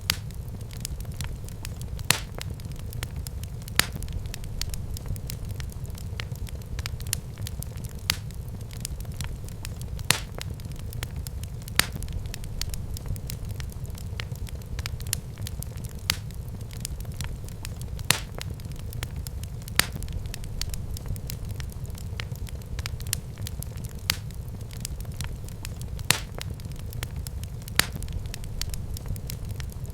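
Wood fire burning in a fireplace, crackling steadily over a low constant rumble, with frequent small snaps and a louder sharp pop every couple of seconds.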